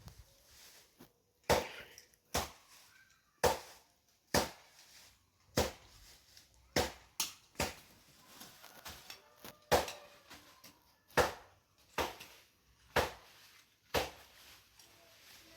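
Hand hoe striking and digging into garden soil, one sharp chop about every second, each followed by a short scrape.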